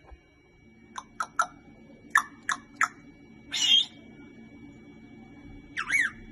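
Pet parrot calling: six short sharp squawks in quick succession, then a longer call and, near the end, a call that bends up and down in pitch.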